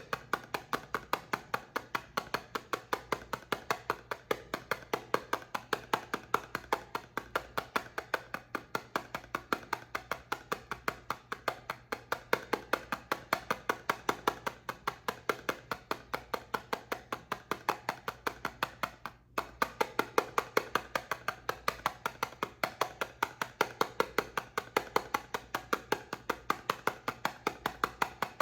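Rapid, even tapping on soap, about four taps a second, with a brief break about 19 seconds in.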